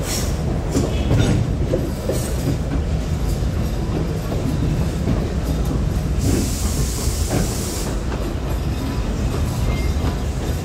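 Alishan Forest Railway cypress-wood passenger train running, heard from on board: a steady low rumble with scattered wheel clicks from the track. Partway through there is a hiss lasting about a second and a half.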